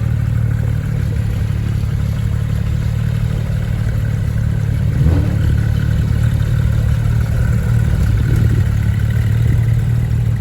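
Car engine running steadily close by, a loud, even low rumble.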